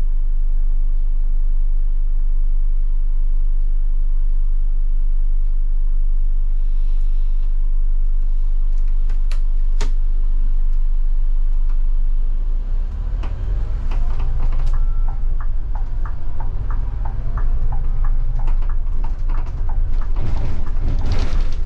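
Scania K250IB bus's diesel engine idling steadily, then about thirteen seconds in growing louder and rising in pitch as the bus pulls away and accelerates. A sharp click sounds about ten seconds in.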